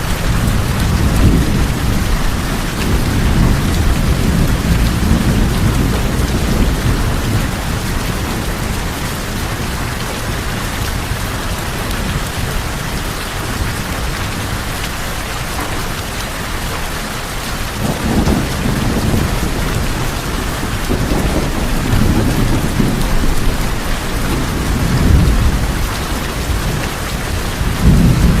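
Steady heavy rain drumming on a tin roof, with low rolling thunder rumbling through the first several seconds and again from about two-thirds of the way in.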